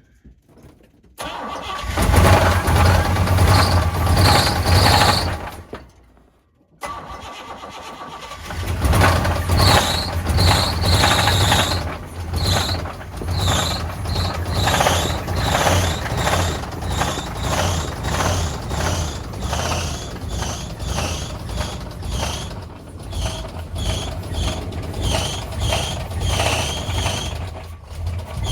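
A car's blown, badly damaged engine runs roughly, kept going only on throttle because it wants to lock up. It comes in about two seconds in, cuts out for a moment near six seconds, then runs on with a steady pulsing a little faster than once a second, each pulse carrying a short high chirp.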